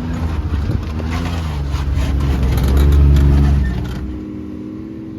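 Can-Am Maverick X3 Max's turbocharged three-cylinder engine accelerating, rising in pitch to its loudest about three seconds in, then easing off to a lower, steadier run near the end.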